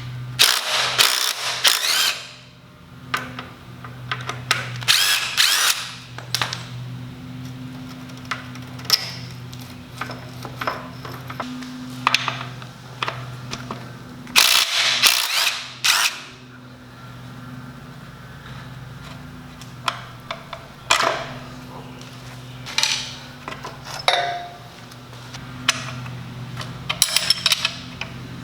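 Cordless impact driver hammering in several short bursts as it undoes the swing-arm bolt and shock mounting bolts, with clicks and clatter of tools and parts between bursts. The longest bursts come near the start, about five seconds in, and about halfway through.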